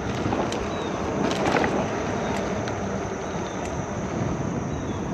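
Mountain bike tyres rolling steadily on a paved trail, with wind rushing over the microphone and a few light ticks.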